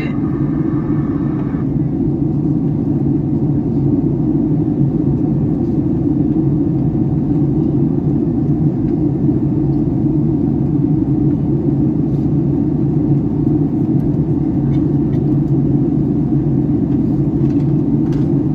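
Steady cabin noise inside a Boeing 757-300 on descent: an even, loud rumble of airflow and engine drone. A faint higher tone cuts off about a second and a half in.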